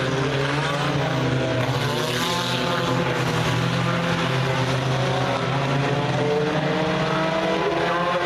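Several race car engines running together at speed on the track, their pitch rising and falling as the cars throttle and pass.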